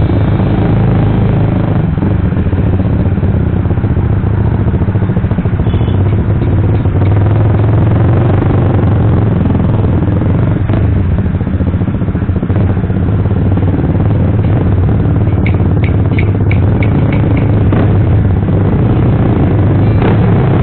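Suzuki GSX-R150 motorcycle engine running steadily through an aftermarket racing exhaust, with a short run of light ticks near the end.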